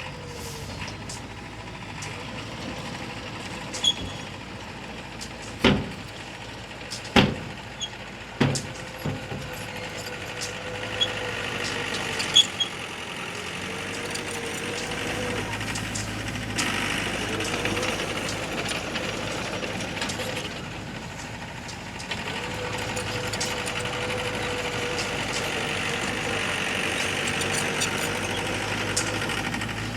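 Diesel engine of heavy earthmoving machinery running with a steady whining tone. Several sharp clanks come in the first half. The engine grows louder about halfway through.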